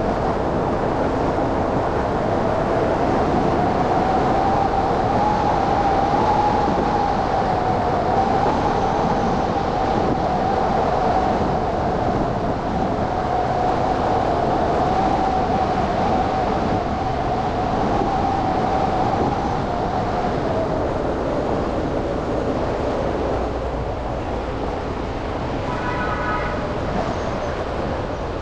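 Steady road and traffic noise heard from a car driving through city streets. A sustained, slightly wavering mid-pitched whine runs for about twenty seconds and then fades out. Near the end there is a brief high tone.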